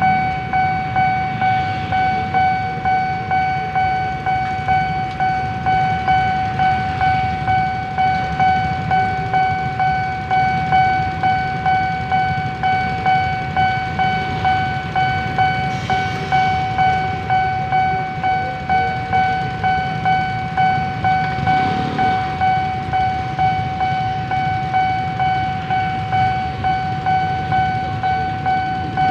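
Railway level-crossing warning alarm sounding a steady repeating tone, about two pulses a second, while the crossing is occupied by a stopped commuter train; a low rumble runs underneath.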